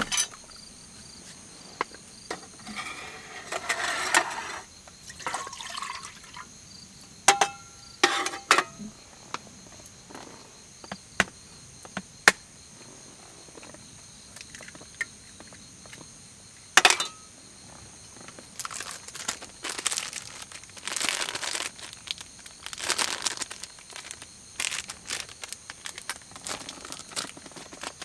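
Scattered sharp clicks and knocks with a few stretches of rustling handling noise, over a steady high chirring of night insects.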